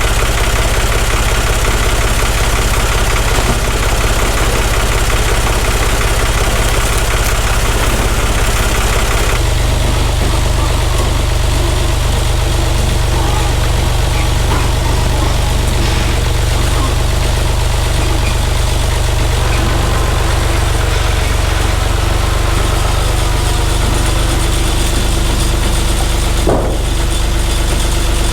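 Oliver farm tractor's engine running steadily close by, its note changing once about nine seconds in.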